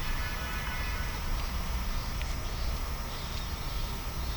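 Pork belly sizzling on a cast-iron pan: a steady hiss with a low rumble under it.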